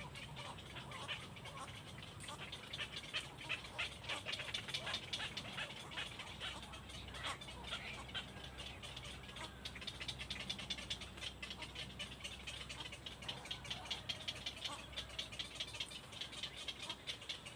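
Birds chirping in a rapid stream of short, high-pitched calls, many a second, over a steady low hum.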